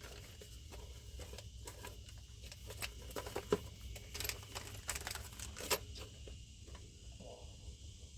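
Scattered light clicks, knocks and rustling from handling PEX plumbing tools and parts, with a few sharper clicks in the middle.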